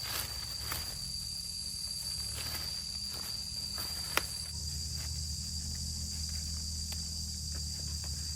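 A steady, high-pitched insect drone over a low rumble, with a few faint clicks and one sharp click about four seconds in.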